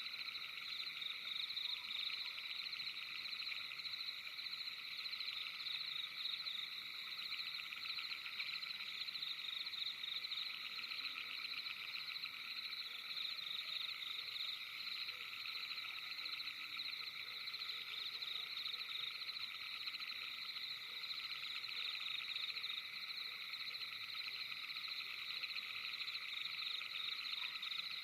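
Steady night chorus of many trilling frogs, a dense fast-pulsing drone that never pauses.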